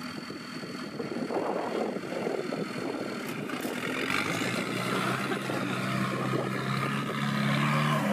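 Off-road 4x4 competition vehicle's engine working hard, rough and uneven at first, then settling about halfway through into a held rev that climbs slightly in pitch.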